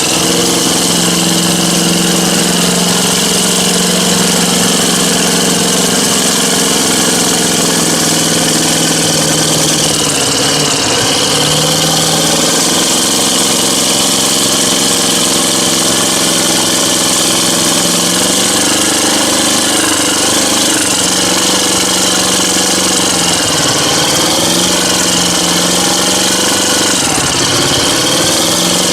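Mud truck's engine running hard and steady, its pitch dipping briefly and recovering a few times, around ten seconds in and again near the end.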